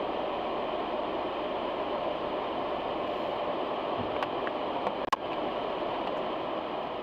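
Steady road and tyre noise of a moving car, with two short sharp clicks about four and five seconds in.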